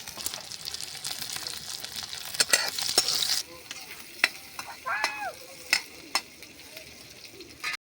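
Food sizzling in hot oil in a pan while being stirred, with sharp scraping clicks of the stirring utensil. The sizzle cuts off suddenly about three and a half seconds in, leaving scattered clicks and scrapes.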